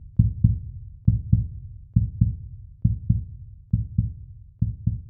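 A low double thump repeating evenly a little under once a second, a heartbeat-style beat in the soundtrack.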